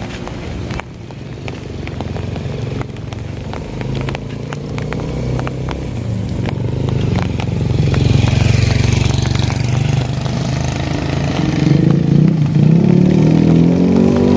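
A motor vehicle's engine running nearby and growing louder, its pitch shifting near the end, over scattered sharp taps and a brief hiss of wet road noise.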